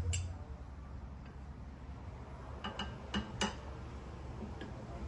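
A few scattered light metallic clicks and clinks of hand tools and mower-deck parts being handled, with a dull knock right at the start and a quick cluster of clinks about three seconds in.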